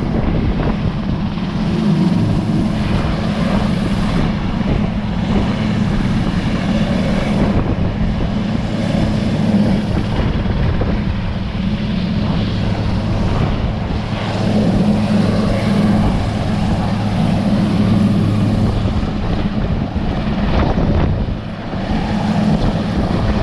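Sikorsky S-61 helicopter in flight, its twin turboshaft engines and main rotor giving a steady, loud drone with a low hum.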